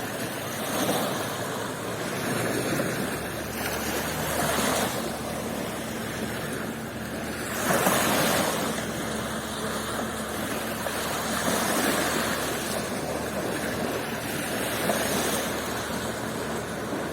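Sea waves breaking and washing up the beach, swelling and fading in surges, with the biggest about eight seconds in.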